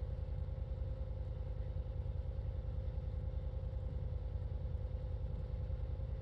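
Engine running steadily at idle, a low rapid throbbing with a constant hum over it.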